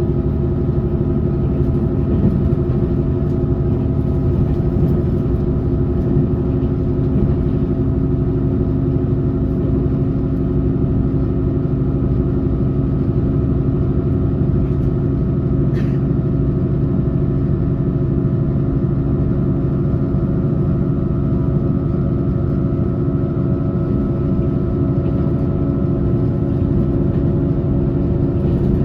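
Passenger train running at a steady speed: a constant low rumble of wheels on the track with a steady motor hum of several fixed tones, and a single sharp click about sixteen seconds in.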